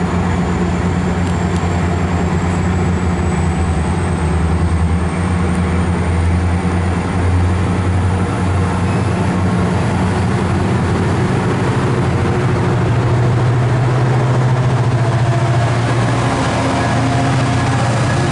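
MARC commuter train rolling past: the clatter and rumble of passenger cars on the rails over the steady low drone of its diesel locomotive, an MP36PH-3C, whose engine grows louder as it comes alongside in the last few seconds.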